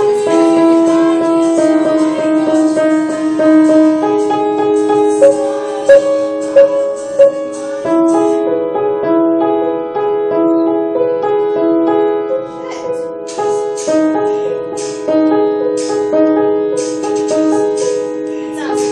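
Music: a slow piano-like keyboard melody of held notes stepping up and down. Several short sharp sounds cut through it a little past the middle, and brief hissy sounds come in over the second half.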